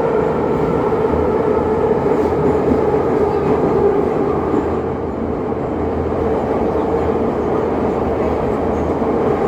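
Passenger train running along the track: a steady rumble and rail noise with a humming tone that sinks slightly in pitch, briefly a little quieter about halfway through.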